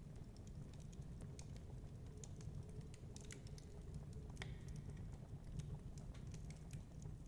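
Fireplace crackling: irregular sharp pops and snaps, with one louder crack about four and a half seconds in, over a steady low rumble of storm wind.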